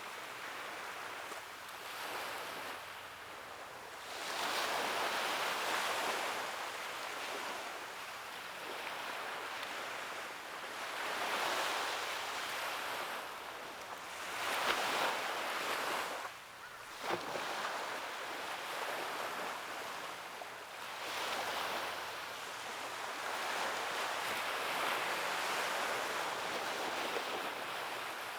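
Ocean surf on a beach: waves breaking and washing up the shore, swelling and fading every few seconds.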